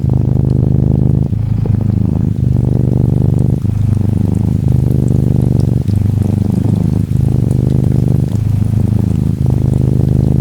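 Norwegian Forest Cat kitten purring close up, a steady low purr that dips briefly every second or so as it breathes in and out. Faint rain patter sits behind it.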